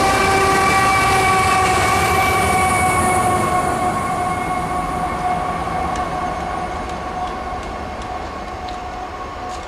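Freight train with a CSX ET44AH locomotive pushing at the rear running past and drawing away. A steady rail rumble carries a sustained pitched whine that sinks slightly in pitch, and both fade gradually as the train recedes.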